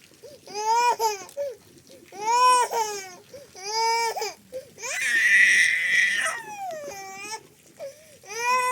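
A young child crying: a run of loud wails, each about a second long, with short breaths between them.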